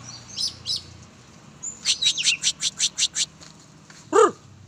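Oriental magpie-robin (kacer) calling: two high chirps, then a quick run of about eight sharp high notes, and near the end one loud call that dips lower.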